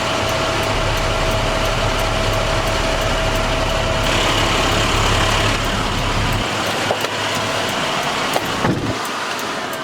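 International MaxxForce DT inline-six diesel engine of a water truck running at idle, with a steady low hum that drops away about six and a half seconds in and a brief falling whine with a couple of clicks near the end.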